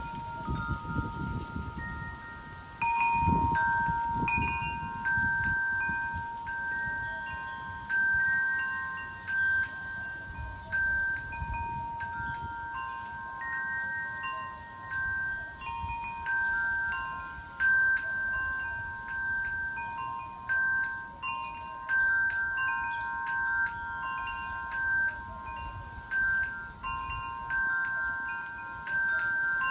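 Wind chimes knocked about by the wind, struck irregularly so that their few clear tones ring on and overlap. Low wind rumble on the microphone rises and falls in gusts underneath.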